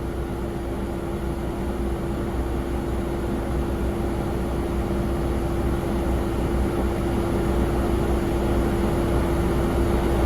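Jet airliner noise: a low rumble with a constant steady hum, slowly growing louder.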